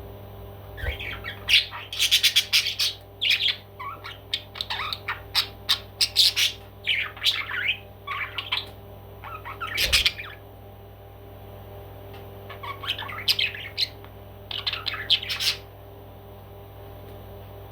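A parrot squawking in quick runs of short, harsh calls, pausing for a couple of seconds about ten seconds in, then calling again in a shorter cluster.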